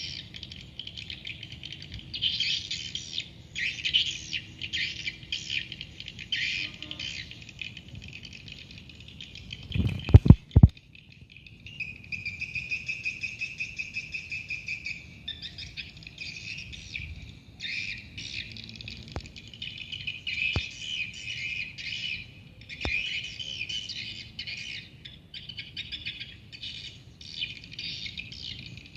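Swiftlets twittering: dense, continuous high chirping chatter. A few loud knocks sound about ten seconds in.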